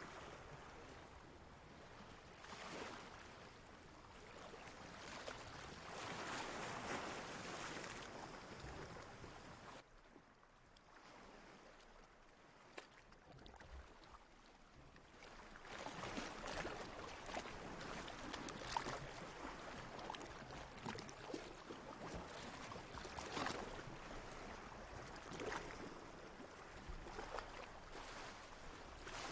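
Sea water washing and splashing in waves, swelling in the first third, falling to a lull, then rising again into a longer, busier wash full of small crackles and pops.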